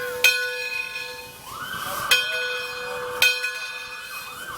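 Steam locomotive bell being rung slowly by hand, three strokes a second or so apart, each ringing on between strokes.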